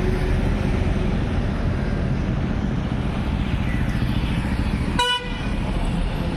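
Motorcycle engine running steadily with road noise, and a short horn toot about five seconds in.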